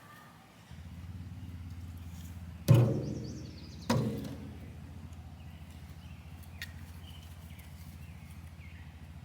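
Two sharp, loud bangs about a second apart, each dying away over a second, over a steady low hum; a few faint bird chirps follow.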